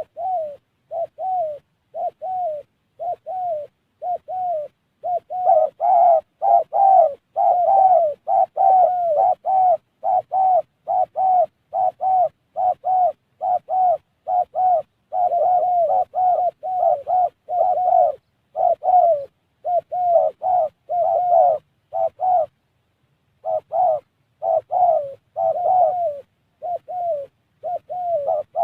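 Spotted dove cooing in a long, fast run of short, repeated coos, about two a second, growing louder and denser about five seconds in, with one short pause near the end.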